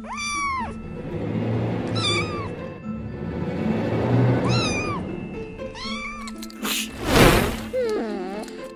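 A cat meowing four times, each a rising-then-falling call about two seconds apart, over background music. About seven seconds in there is a brief loud rushing noise, followed by a wavering cat call.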